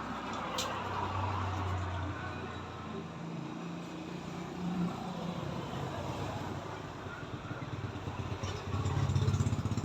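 A motor vehicle engine running, growing louder about a second in and again near the end.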